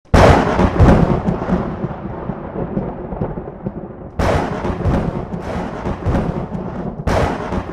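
Three loud thunderclaps, each breaking suddenly and rumbling away over a few seconds: one at the start, one about four seconds in, and one near the end.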